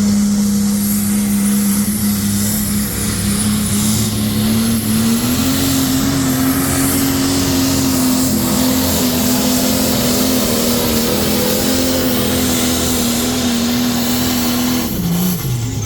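International Harvester pulling tractor's engine running flat out under load as it pulls the sled down the track. The engine note holds steady, steps up a little about five seconds in, and drops away shortly before the end as the pull finishes.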